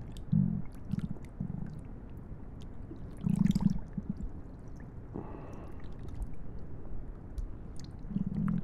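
Close-miked human stomach gurgling and rumbling in a string of short, low bursts, the loudest a little over three seconds in.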